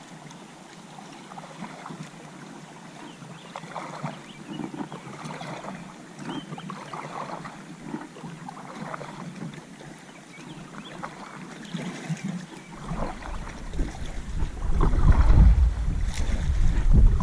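Kayak paddling on a river: irregular paddle splashes and water sounds. About thirteen seconds in, wind starts rumbling on the microphone and becomes the loudest sound.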